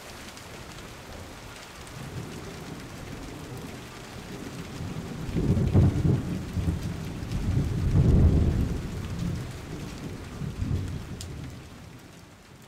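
Thunderstorm sound effect: steady rain with two low rolls of thunder swelling in the middle, fading out near the end.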